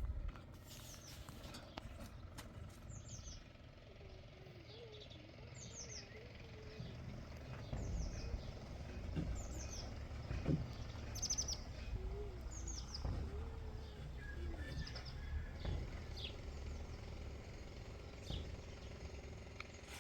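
A small bird calling over and over: short, high chirps that fall in pitch, about one every one and a half seconds, over a low rumble.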